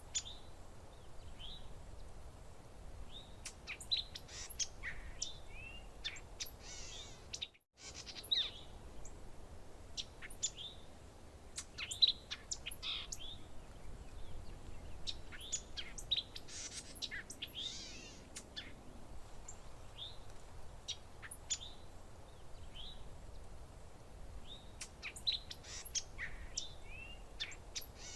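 Several songbirds chirping and calling, with many short chirps and quick whistled notes overlapping, over a faint low rumble. The sound cuts out for a moment about seven and a half seconds in.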